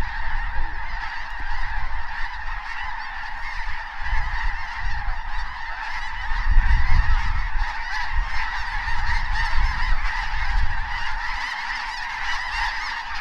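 A huge flock of snow geese calling all at once, a dense, continuous clamor of high honks. A low rumble swells in the middle, loudest about seven seconds in.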